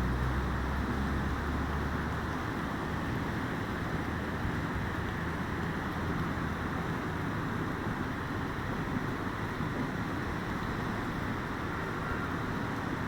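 Flooded River Swat rushing past in a steady roar of water. A low hum is mixed in for the first two seconds or so, then fades out.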